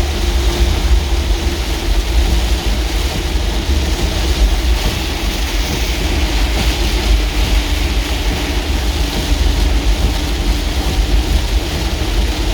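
Steady road and engine noise heard inside a moving vehicle: a constant deep rumble under a continuous hiss, with no change through the stretch.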